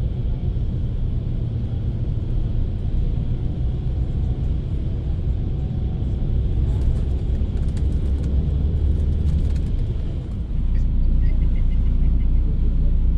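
Intercity coach running on the road, heard from inside the cabin: a steady low rumble of engine and road noise. Short ticks and rattles come in the middle, and the rumble grows louder about two-thirds of the way through.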